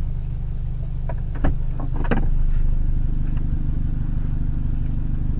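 A vehicle engine running steadily with a low hum. A few short clicks or knocks come between about one and two seconds in.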